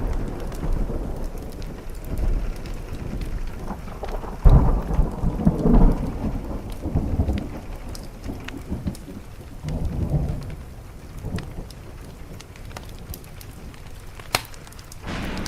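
Thunder rumbling over steady rain, with the loudest rolls about four and a half and six seconds in and another near ten seconds. Small sharp crackles of a wood fire are scattered throughout.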